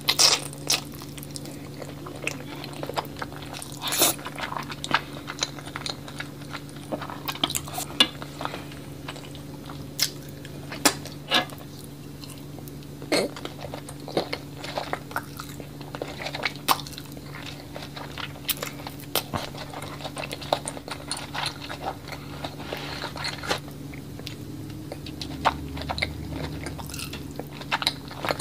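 Close-miked chewing of creamy alfredo spaghetti: wet mouth clicks and smacks come irregularly, several a second, with a few sharper ones standing out. A low steady hum runs underneath.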